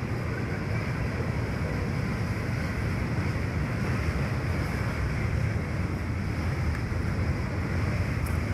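Double-stack container freight train rolling past below, a steady low rumble of the cars on the rails, with wind on the microphone.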